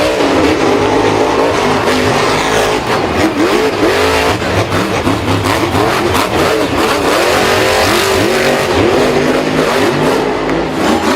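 Several engines revving up and down over one another, as in a race, with their pitch rising and falling continuously.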